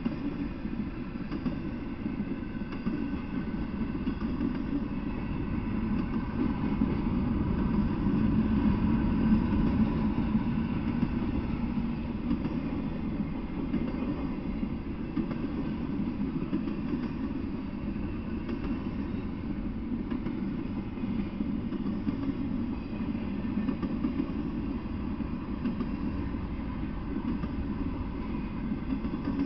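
Freight train of intermodal well cars rolling past: a steady low running noise of steel wheels on rails, swelling a little about eight to ten seconds in.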